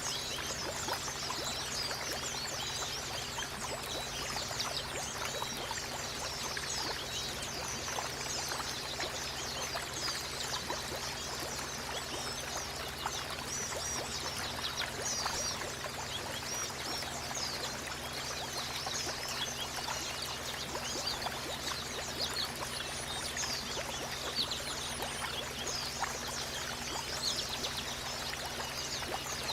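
Running water pouring and trickling steadily, with many small birds twittering over it in quick, high chirps that go on without a break.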